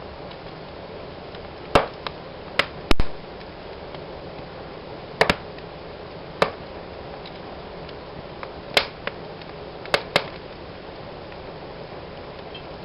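Wood fire burning in a fireplace: a steady soft hiss with about ten sharp crackling pops at irregular intervals, the loudest about three seconds in.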